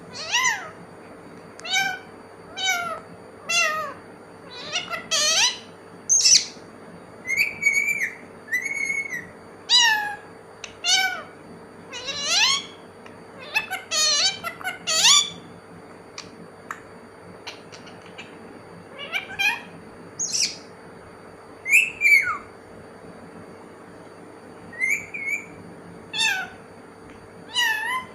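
Pet talking parrot calling over and over: short pitched cries, many sliding down in pitch, coming in clusters with brief pauses.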